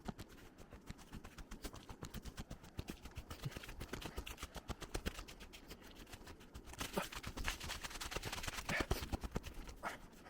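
Footsteps on a trail: a quick, uneven run of crunching steps and knocks, several a second, over a low rumble.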